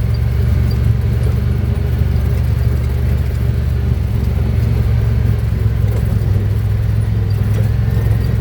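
Honda Pioneer 1000-5 side-by-side's engine and drivetrain running steadily on the trail, a constant low drone with no clear revving.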